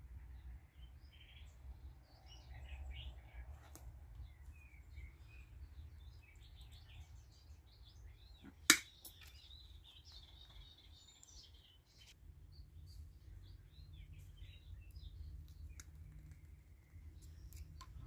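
Small birds chirping and calling in woodland, short scattered notes throughout, with a wavering high whistle lasting about two seconds just before the middle. One sharp click a little under halfway through.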